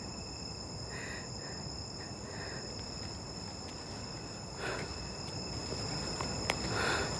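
Insects chirring steadily at a high pitch over a low background hiss, with a couple of soft brief sounds near the end.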